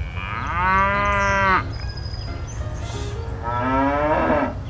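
A cow mooing twice: one long moo about a second and a half long, then a second moo a couple of seconds later that falls in pitch as it ends.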